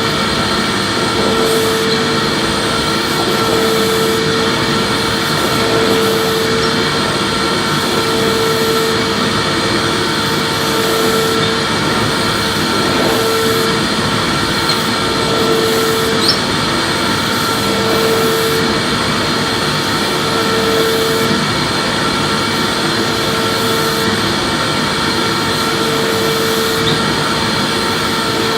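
Vacuum cleaner running steadily while being pushed back and forth. Its hum swells and fades about once every two seconds with each stroke.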